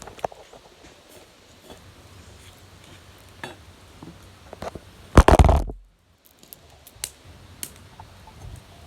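Faint crackling and scattered pops of a wood fire burning. About five seconds in, a loud deep burst of noise on the microphone, then the sound cuts out completely for about half a second.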